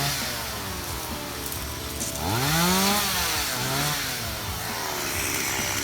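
Stihl two-stroke chainsaw revving, its engine pitch swinging up and down: one long rise and fall about two seconds in, then a shorter one near four seconds.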